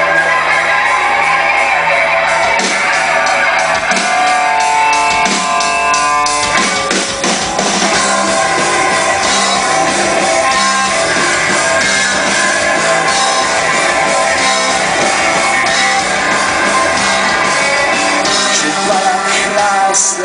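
Live rock band playing loudly: electric guitars and drum kit, with a stretch of held notes about four to seven seconds in before the drums drive on.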